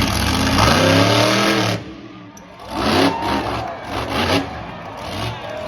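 Monster truck engine revving hard, climbing in pitch, then the throttle cut suddenly just under two seconds in. A series of short, sharp throttle blips follows.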